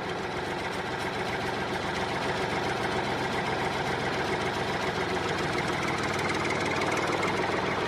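Tractor engine idling steadily at an even speed.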